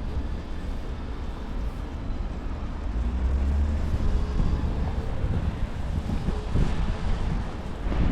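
Blizzard wind buffeting the microphone with a low rumble, mixed with street traffic; a vehicle engine hum swells about three seconds in.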